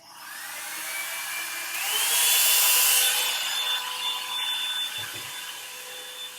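Revlon One-Step hot-air dryer brush switched on, its motor whine rising as it spins up, then running with a steady whine over a rush of air. The pitch steps up about two seconds in, and the air is loudest for about a second after that.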